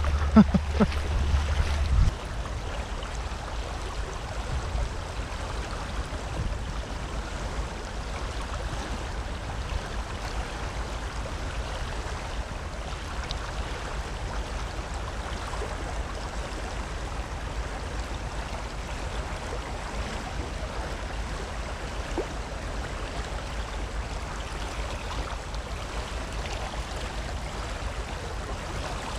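Steady rush of water from a rain-swollen outflow. For about the first two seconds a heavier low rumble lies over it, then it settles to an even, unchanging rush.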